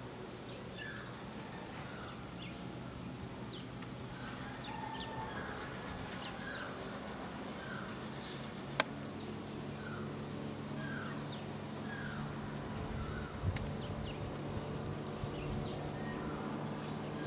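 Birds calling over and over with short falling notes, about one to two a second, with a few faint high ticks among them. From about halfway through, a low motor hum grows steadily louder beneath them, and there is one sharp click near the middle.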